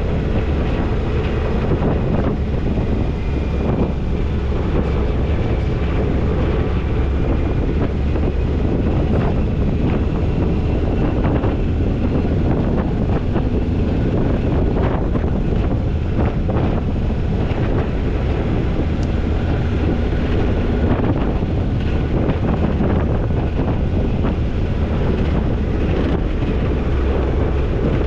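Toyota Tercel 4WD wagon driving, a steady mix of engine and road noise with wind buffeting the microphone. Scattered short knocks and rattles come through, mostly in the middle of the stretch.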